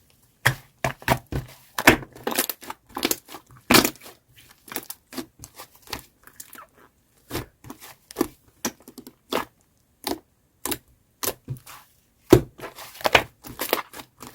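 Shaving-foam slime being squeezed and stretched by hand, giving irregular crackles and pops with brief pauses between handfuls.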